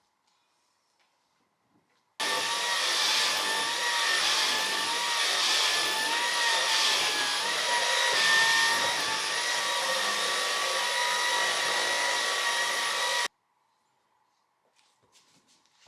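Vacuum cleaner running steadily with a motor whine, starting about two seconds in and cutting off abruptly about eleven seconds later.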